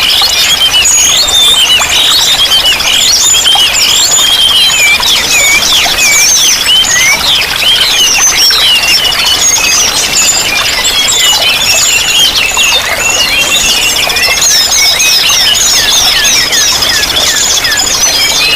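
Many small songbirds chirping and twittering at once: a dense, continuous chorus of quick high calls and trills, over a steady rush of running water.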